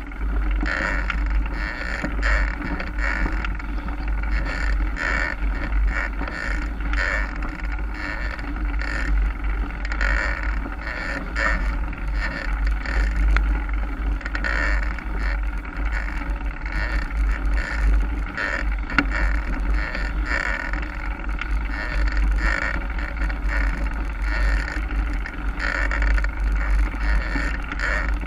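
Mountain bike ridden along a trail: steady wind rumble on the microphone, with tyre noise and irregular small knocks from the bike over rough ground.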